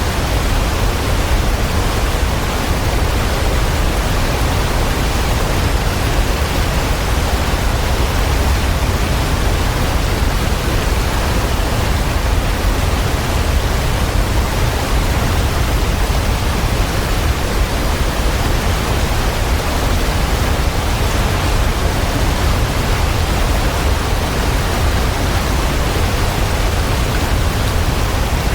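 Waterfall: a steady rushing of falling water, strongest in the low rumble, unchanging throughout.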